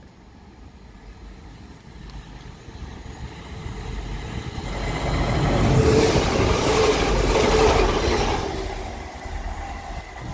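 TransPennine Express Class 185 diesel multiple unit running through the station at speed without stopping: its rumble and rail noise build up over about five seconds, peak as it passes with a steady hum, then fade as it draws away.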